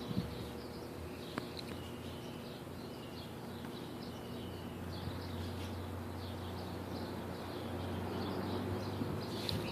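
Small birds chirping repeatedly over a steady low hum that builds a little from about halfway through.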